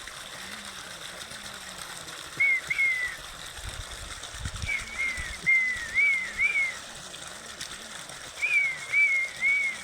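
A bird whistling a short note that rises and falls, repeated in three runs: two notes, then five, then four, about two or three a second. A few low thumps come about halfway, over a steady hiss.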